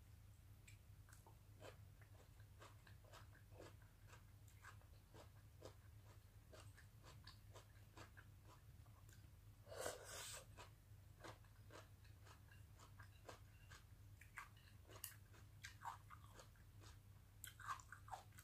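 Faint close-miked chewing of grilled meat and sautéed cabbage: soft wet mouth clicks and smacks scattered throughout, with one louder burst about ten seconds in. A low steady hum runs underneath.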